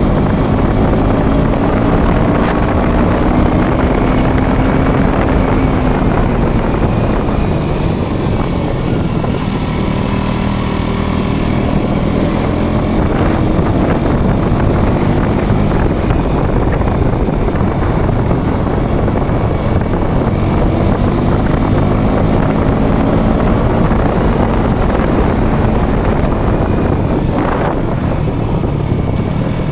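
Motorcycle engine running steadily while riding, its pitch slowly rising and falling with throttle, over wind noise on the microphone.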